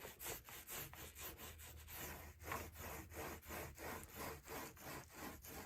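Faint rhythmic rubbing strokes against a surface, about three a second, evenly paced.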